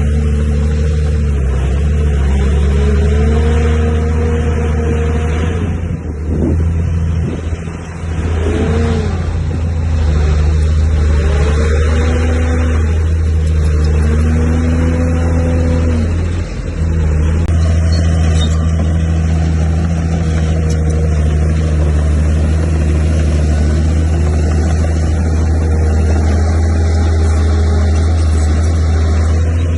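Komatsu D31P bulldozer's diesel engine running under load, its pitch rising and falling several times in the first half as the revs change, with a couple of brief dips in level, then holding steady.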